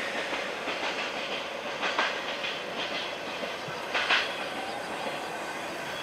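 Empty container flatcars of a freight train rolling away over jointed track and points: a steady rolling rumble with sharp wheel clacks about two and four seconds in.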